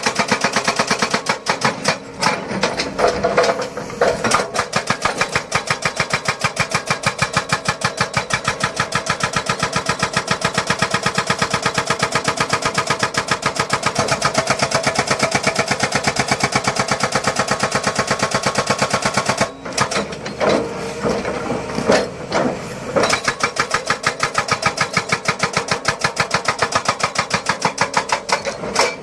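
Jackhammer pounding in a rapid, steady rhythm of roughly a dozen or more blows a second. About two-thirds of the way through it stops briefly, strikes unevenly for a few seconds, then settles back into its steady hammering.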